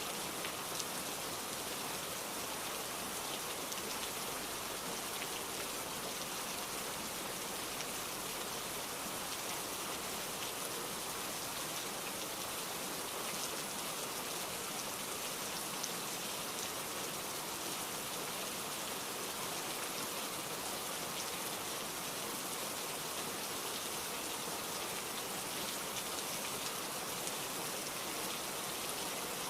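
Steady heavy rain, a continuous downpour hissing evenly with scattered drop ticks.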